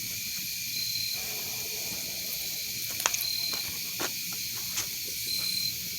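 A steady chorus of night insects such as crickets, with a short high chirp recurring every couple of seconds. A few sharp pops from the wood campfire come through.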